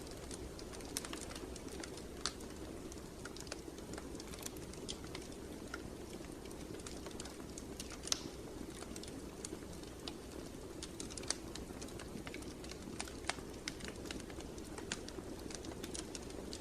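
Wood fire in a fireplace crackling, with irregular sharp pops over a steady low rumble of flames.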